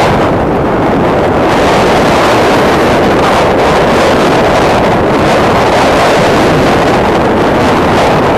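Storm wind blowing hard across the microphone: a loud, continuous rush of wind noise.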